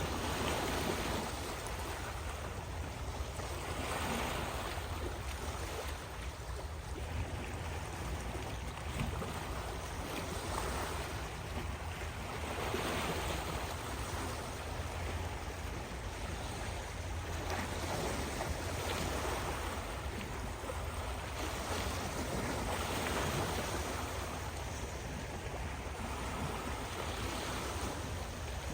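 Ocean surf: waves breaking and washing in, swelling and fading every few seconds, over a steady low rumble.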